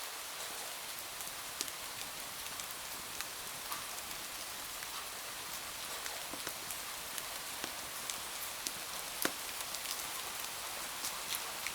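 Steady rain on window glass, an even hiss, with scattered sharp ticks and pops throughout, the loudest about nine seconds in.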